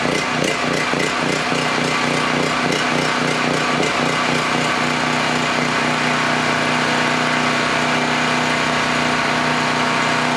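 Portable gasoline generator engine running on choke just after a cold start. It wavers unevenly for the first few seconds, then settles into a steady hum.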